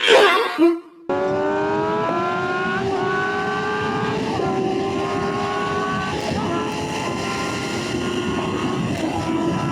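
A brief voice-like sound in the first second, then, after an abrupt cut, a sport bike's inline-four engine running hard at high revs, its pitch climbing slowly with brief dips as it shifts up, over steady wind noise.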